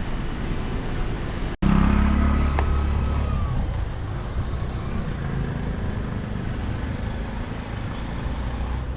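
Motor vehicle running in road traffic, a steady low rumble that drops out for an instant about one and a half seconds in, then comes back louder for a couple of seconds before settling.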